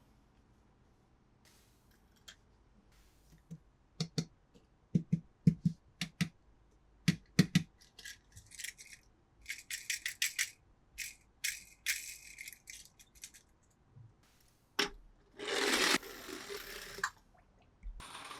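Toy cars and their plastic packaging being handled: a run of sharp clicks and knocks, then several seconds of rattling. Near the end comes a louder rustle lasting about two seconds.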